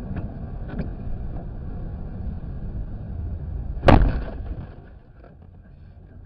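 Road rumble from inside a moving car, broken about four seconds in by one sharp, loud impact of a car collision that dies away over about a second.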